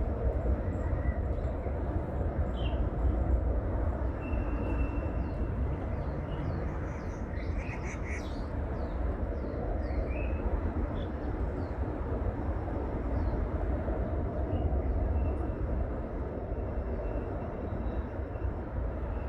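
Birds chirping in short scattered calls, busiest about seven or eight seconds in, over a steady low rumble.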